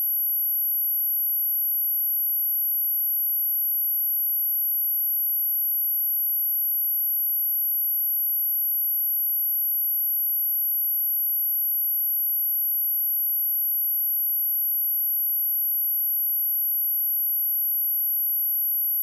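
A steady, unbroken 11731 Hz sine tone: a single high-pitched pure tone used as a speaker test.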